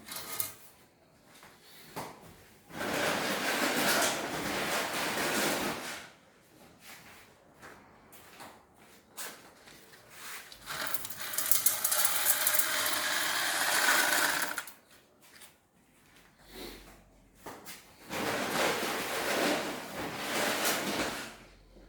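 Stones rattling and scraping as they are put in around a can inside a homemade eco fireplace, in three spells of a few seconds each with quieter handling between.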